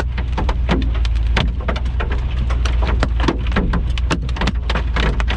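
Hailstones and rain striking a vehicle's body and glass in dense, irregular sharp hits, over a steady low rumble.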